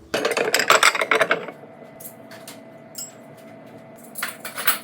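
Kitchenware clattering: dishes and utensils rattling and knocking for about a second and a half, then again briefly near the end, with a faint steady hum in between.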